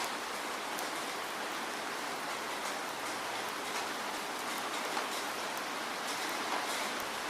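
Steady falling rain: an even hiss with scattered drop ticks.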